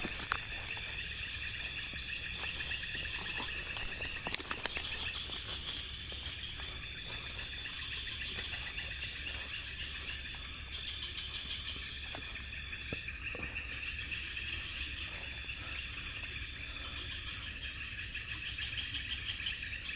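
Steady chorus of night insects such as crickets and cicadas, with high-pitched pulsing trills, broken by a few sharp clicks or snaps about four to five seconds in.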